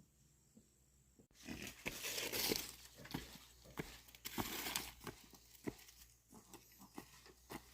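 Pigs grunting, with a busy run of short rough grunts and crunchy clicks that starts suddenly about a second in. Before that, faint insect chirring.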